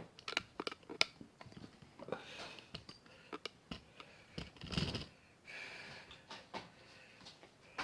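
A string of small clicks and light knocks with soft rustling, mostly in the first few seconds: things being handled while coffee is made.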